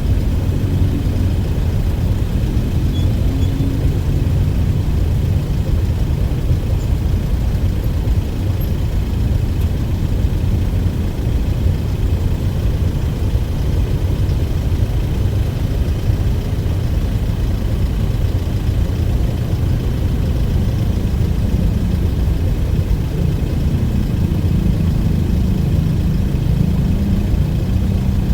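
A vehicle running at a steady pace, a constant low rumble with no revving or change in level.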